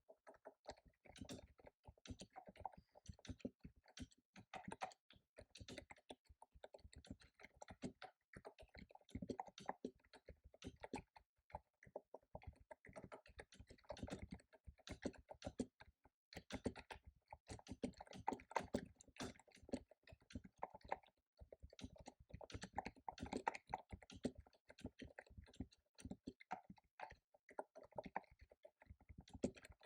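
Fast typing on a computer keyboard: a dense, uneven run of key clicks with brief pauses now and then.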